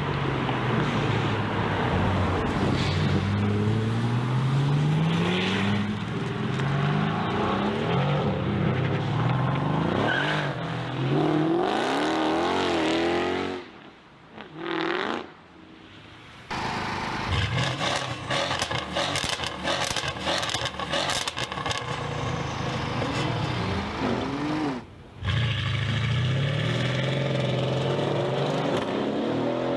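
Mercedes-AMG car engines and exhausts accelerating hard, the pitch climbing and dropping back again and again as the cars shift up through the gears. The sound cuts off abruptly twice, quieter for a couple of seconds about halfway through and briefly near the end, before the engines pick up again.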